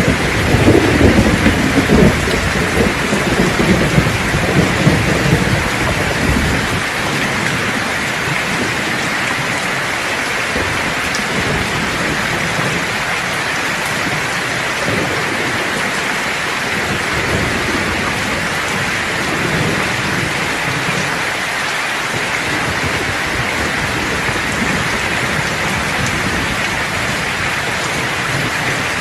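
Steady, heavy rain in a thunderstorm. A rumble of thunder rolls through the first few seconds and dies away, and fainter rumbles swell twice later on.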